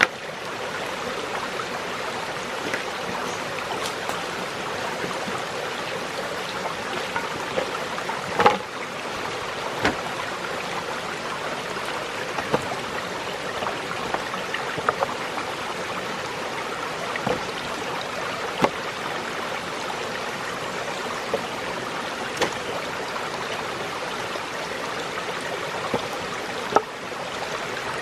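Steady rushing water, like a forest stream running, with a few scattered sharp knocks or clicks, the loudest about a third of the way in and another near the end.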